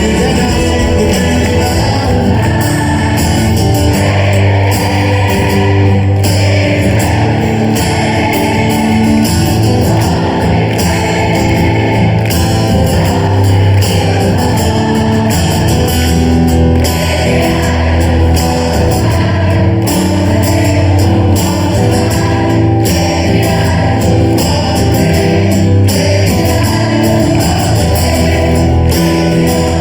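Rock band playing a song live, with singing over the instruments, loud and steady throughout.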